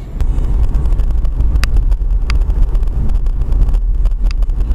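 Steady low rumble of a car in motion, heard from inside the car, with three short clicks over it.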